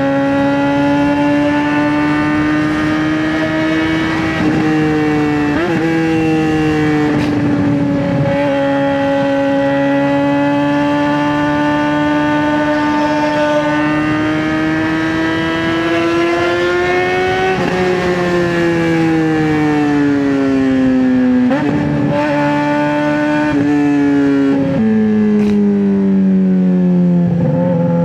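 2009 Suzuki GSX-R600 inline-four running through a straight-pipe exhaust under way, a loud steady high-revving drone that rises and falls slowly in pitch. There are brief breaks at gear changes, and the revs drop over the last ten seconds.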